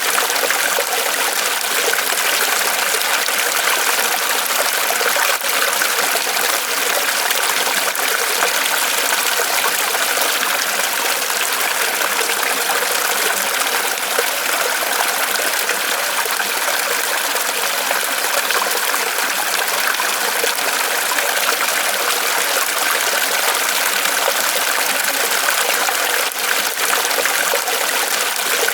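Small waterfall of water trickling and splashing down off a tree trunk, a steady even rush with no pauses.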